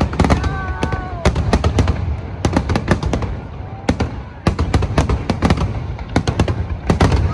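Aerial fireworks shells bursting in rapid clusters of sharp bangs over a continuous low rumble, with brief whistling tones from shells about half a second in.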